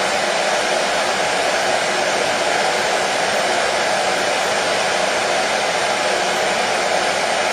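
Electric hair dryer running steadily, a constant even blowing noise with a faint motor hum and no change in speed, played as white noise to calm and put colicky babies to sleep.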